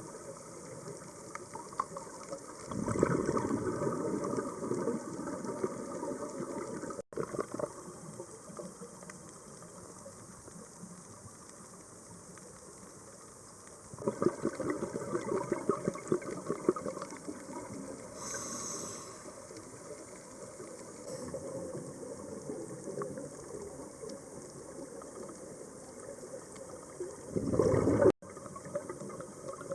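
Underwater recording of a scuba diver's exhaled bubbles rushing from the regulator in bubbling bursts, about three seconds in, again about fourteen seconds in and briefly near the end, over a steady underwater hiss.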